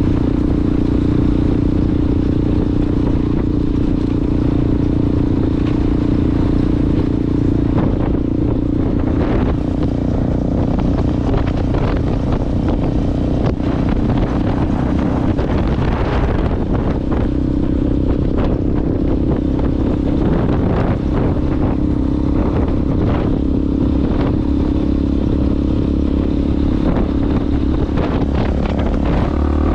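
Yamaha Ténéré motorcycle running through a Coyote aftermarket exhaust at a steady pace off-road. From about eight seconds in, the engine note wavers for several seconds and is mixed with rattling and knocks from riding over rough ground.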